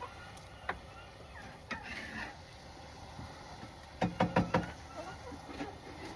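Handling knocks in a wooden chicken coop: a few scattered clicks, then about four seconds in a quick run of four sharp knocks, the loudest sound.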